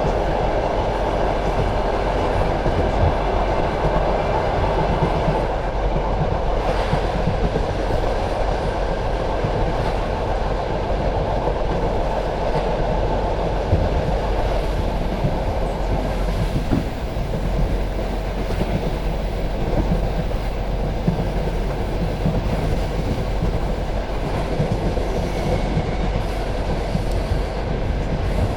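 Passenger train carriage running along the track: a steady rumble of wheels on rail with the clickety-clack of the wheels over rail joints.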